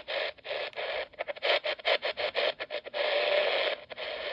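Weather radio receiver hissing with static that cuts in and out rapidly and irregularly, with a longer unbroken stretch of hiss about three seconds in.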